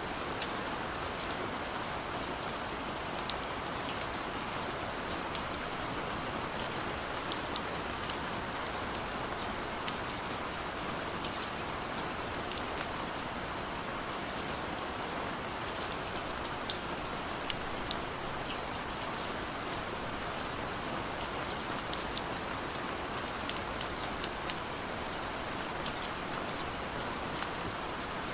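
Steady gentle rain falling, an even hiss with individual drops ticking sharply here and there.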